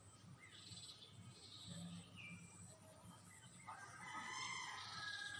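Faint bird calls: a few short chirps, then one longer drawn-out call, the loudest sound, starting a little before four seconds in.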